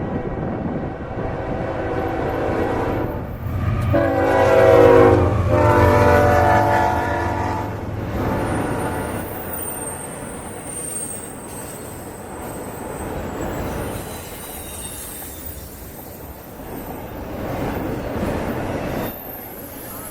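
A freight train's diesel locomotive sounds its multi-note air horn in long blasts, loudest about four to seven seconds in, over the low rumble of the engine. After that, high-pitched wheel squeal rises from the passing cars.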